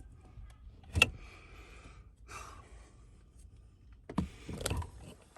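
Sharp click about a second in, a brief scrape, then a cluster of knocks and rattles near the end: hands and tools working on the steering wheel assembly inside a car.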